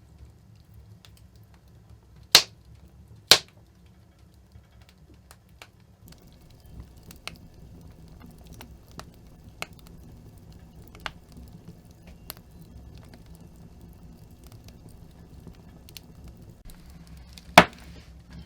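Three loud, sharp knocks, two close together about two seconds in and one near the end, over scattered light ticks and taps.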